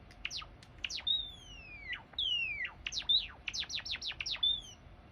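Java sparrow singing: quick downward chirps, then two long notes gliding down in pitch. A fast run of chirps follows, with a short falling note near the end.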